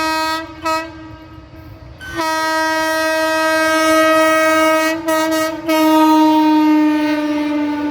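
Locomotive horn of a coal goods train: a blast ending just after the start and a short toot, then, after a quieter gap, a long sounding of the horn from about two seconds in, broken twice briefly around five seconds, its pitch sinking slightly near the end.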